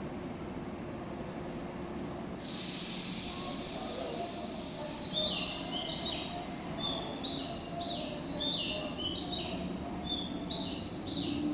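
A sudden hiss of released compressed air from a stopped train about two seconds in, fading over a couple of seconds. It is followed by repeated quick, high, falling birdlike chirps in little groups, over a steady low rumble of station ambience.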